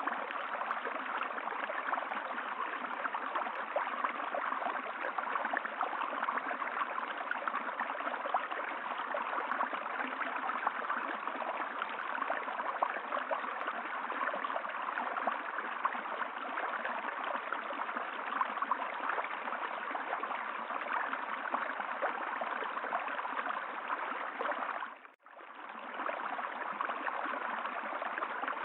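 Steady rushing of running water, like a flowing stream. About 25 seconds in it fades almost to silence for a moment and then comes back.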